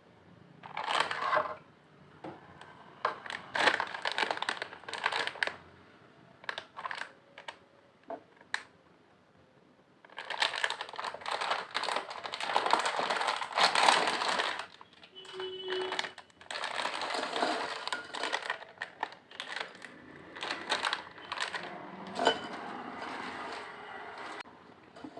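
Lay's potato chips crunched and chewed close to the microphone: separate sharp crunches in the first few seconds, then longer runs of dense crunching from about ten seconds in.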